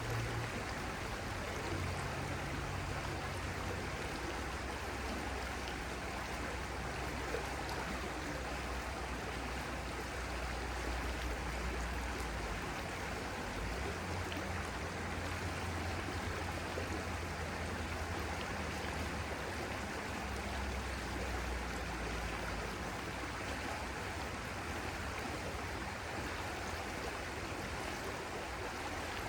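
Stream water flowing and rushing steadily and continuously. Underneath it is a low drone that shifts in pitch every few seconds.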